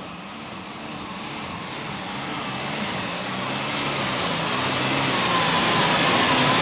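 Turbocharged diesel super stock pulling tractor, an International Harvester, running under full load as it drags the sled down the track. The engine grows steadily louder, and a high steady whine joins about four seconds in.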